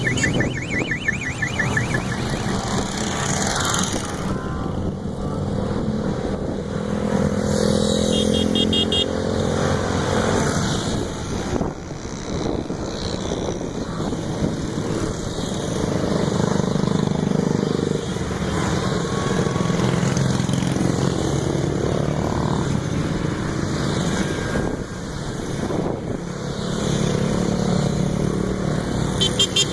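Engines of many motorcycles running together in a moving procession, their pitch rising and falling throughout.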